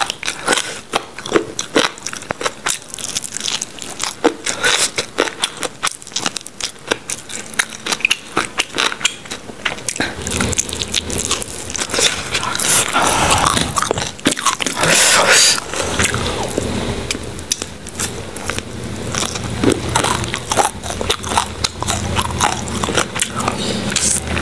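Crispy fried chicken being bitten and chewed right at a clip-on microphone: a run of sharp crunches and crackles, denser and heavier from about halfway through.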